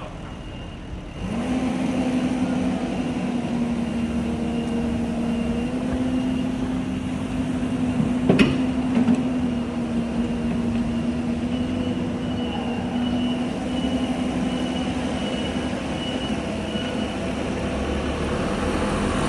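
Mini excavator's diesel engine running under load, a steady pitched drone that steps up in level about a second in. A single sharp clank comes about eight seconds in, followed by a couple of lighter knocks.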